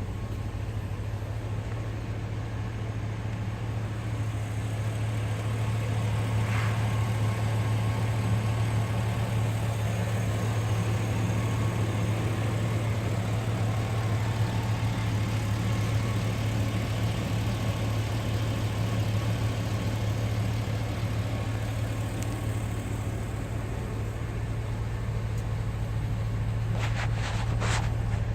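Chevrolet 5.3L V8 in a 2004 Silverado K1500 idling steadily, with a few short clicks near the end.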